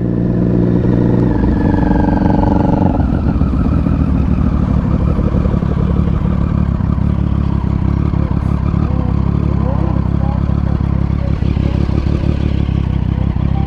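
Moving motorcycle with wind rushing over the microphone. A steady engine hum is heard for the first three seconds, then drops out, leaving the wind rush.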